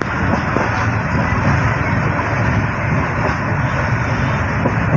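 Steady, loud rush and rumble of a passenger train running at speed, with wind buffeting the microphone outside the coach.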